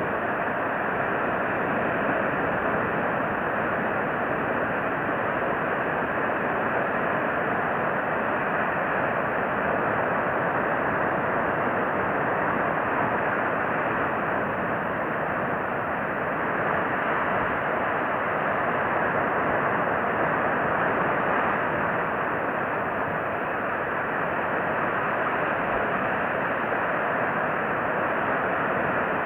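Steady, even rushing noise with no distinct calls, knocks or pitched sounds in it.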